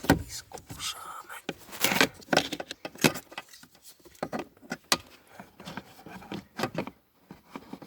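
Irregular clicks, taps and short scrapes of hand tools and parts being handled while a flap positioning motor is fitted into place.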